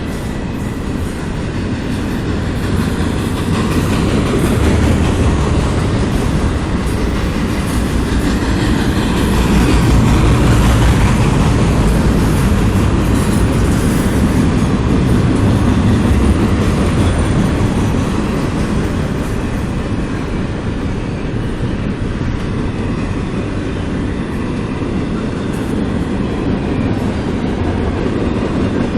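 CSX freight train rolling past close by: a steady rumble of cars and wheels on the rails, with some clickety-clack. It swells loudest through the middle.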